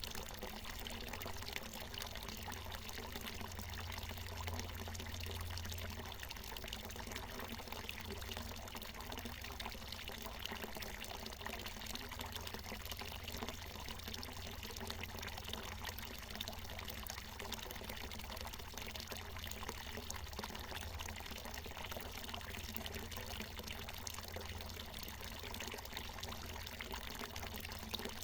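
Water from a natural mountain spring pouring and splashing down in a steady, unbroken stream.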